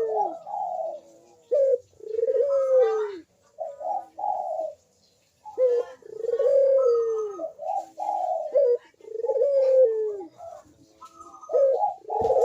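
Barbary dove (burung puter) cooing repeatedly: about half a dozen drawn-out coos, each sliding down in pitch, with short pauses between them.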